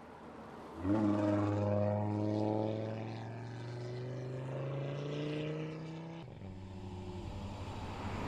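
Audi A3 clubsport quattro concept's turbocharged five-cylinder engine pulling under load, its note rising slowly as the car accelerates. About six seconds in it cuts abruptly to a steadier, lower engine note.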